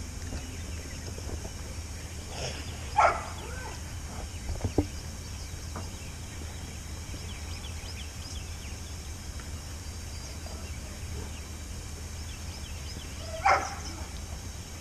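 A dog barking once about three seconds in and again near the end, over a steady low hum, with a small knock between.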